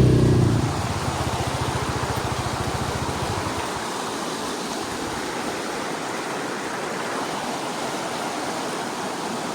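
Creek water running steadily over rocks. An ATV engine idles underneath for the first three seconds or so, then dies away.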